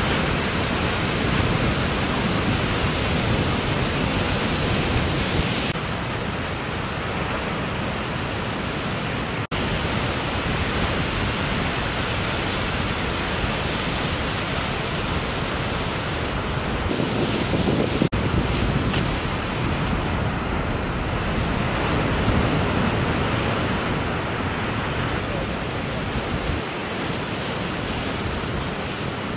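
Ocean surf breaking, with wind buffeting the microphone: a steady wash of noise that cuts out for an instant twice, about a third and about two-thirds of the way in.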